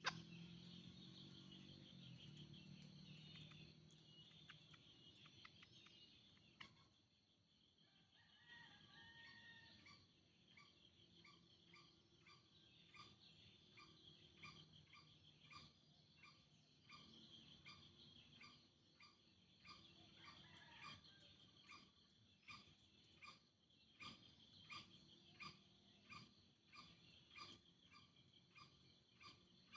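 Faint insect and frog chorus: a steady high drone, joined about a third of the way in by a short call repeating roughly once a second.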